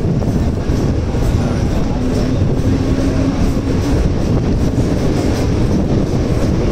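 Mumbai suburban local train (EMU) running and gathering speed, heard from its open doorway: a steady, loud rumble of wheels on the rails with wind. A humming tone comes in about a second and a half in and fades out near four seconds.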